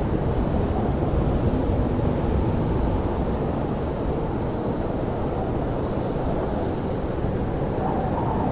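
Railyard ambience in winter: a steady low rumble with a thin, constant high whine over it, and no distinct events.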